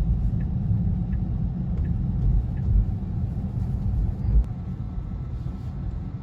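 Road and tyre rumble heard inside a moving Tesla's cabin during a left turn. The turn signal ticks steadily, about once every 0.7 seconds, and stops about two seconds in.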